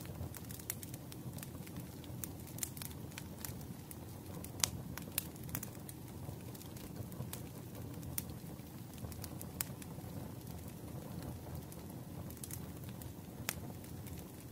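Wood fire crackling: irregular sharp pops and snaps over a low steady rumble of burning, with a louder pop about four and a half seconds in.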